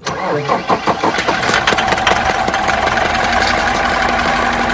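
A vehicle engine running steadily, with a few sharp clicks in the first two seconds.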